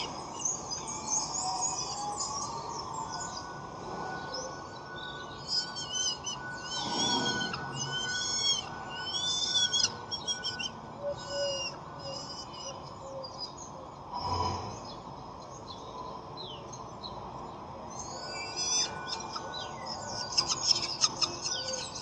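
Birds calling: scattered high chirps, a run of repeated arched calls in the middle, and a busy flurry of chirping near the end, over a steady background hiss.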